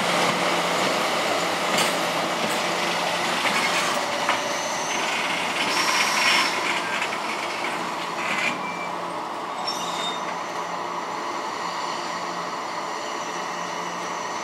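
Freight train's wagons rolling along the track with wheels clattering over the rails, and a few brief high squeals from the wheels between about four and ten seconds in; the sound slowly grows quieter.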